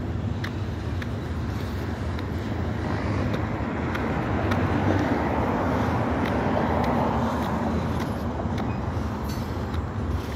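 Freight train cars rolling past: a steady low rumble with faint scattered clicks, swelling louder for a few seconds in the middle before easing.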